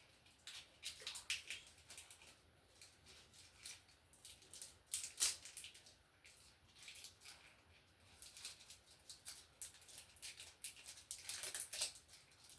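Faint scattered clicks and scrapes from working an anti-short bushing into the cut end of metal-clad (MC) cable's armor, with the loudest click about five seconds in and a cluster of them near the end.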